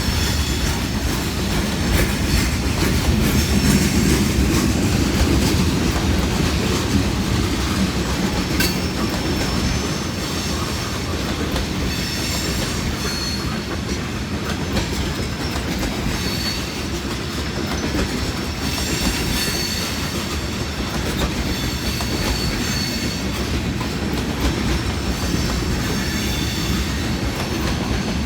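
Freight cars of a long mixed-manifest train rolling steadily past with a continuous rumble and wheel clatter over the rail joints. Faint high-pitched wheel squeals come and go, mostly in the second half.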